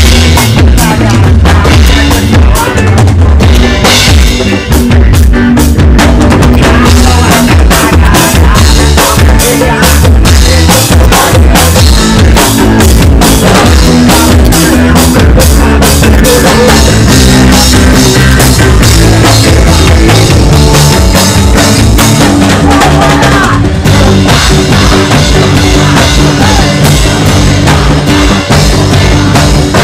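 Reggae band playing loud, with a steady drum-kit beat and heavy low end.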